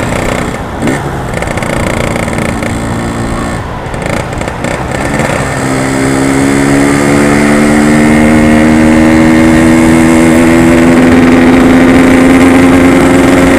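Yamaha RX-King two-stroke single-cylinder motorcycle engine under way. The throttle eases off briefly about one and four seconds in. From about five seconds in the engine climbs in pitch as it accelerates, then holds a steady high note.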